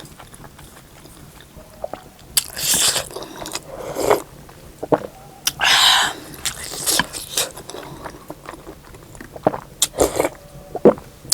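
Close-up eating sounds from a mukbang of soup momo and thukpa noodle soup: chewing and wet mouth clicks, with two longer noisy bursts a few seconds apart and a few sharp ones near the end.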